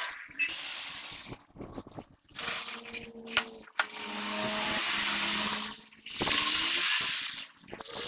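A power tool running in short bursts of a couple of seconds each, whirring and hissing, with a few sharp metallic knocks in a gap between bursts.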